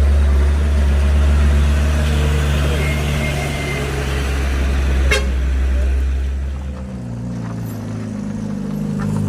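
Heavy truck engine pulling uphill with a loud, steady low drone, dropping and changing pitch about seven seconds in. A sharp tap about five seconds in.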